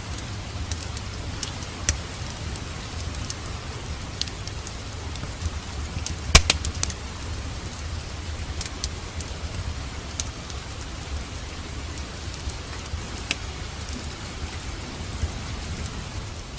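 Steady rain with a low rumble underneath, and a fireplace crackling: sharp pops scattered through it, the loudest about six seconds in.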